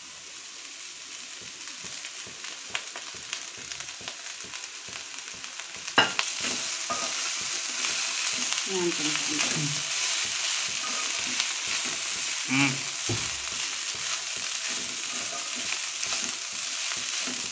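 Boiled rice and chopped vegetables frying in a wok, stirred and scraped with a wooden spatula: a steady sizzle. About six seconds in there is a sharp knock, and the sizzle gets louder after it.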